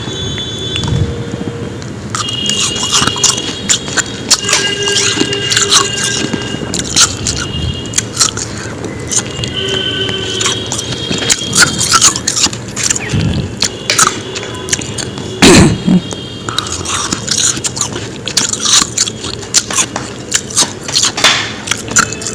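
Close-miked biting and chewing of powdery ice, a dense run of irregular crisp crunches.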